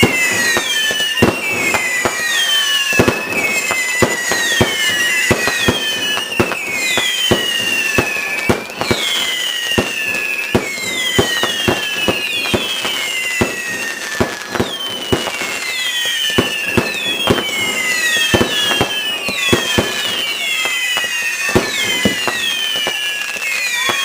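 Fireworks display: many overlapping whistling fireworks, each whistle falling in pitch, among frequent sharp bangs and crackles.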